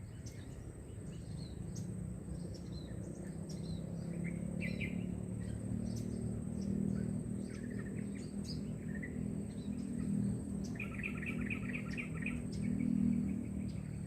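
Small birds chirping in short scattered calls, with a fast rattling trill about eleven seconds in, over a low steady rumble and a thin high steady whine.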